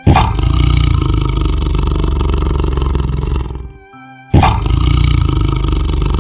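Two long, loud animal roars, each starting suddenly, the second beginning about four seconds in, over soft background music.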